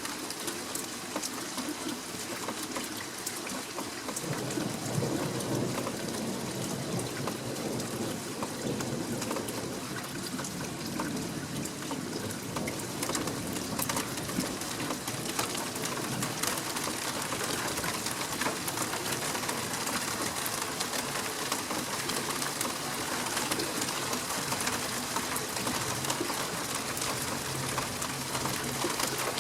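Steady rain falling, with sharp ticks of nearby drops. About four seconds in, a low rumble of thunder rolls in and fades away over several seconds.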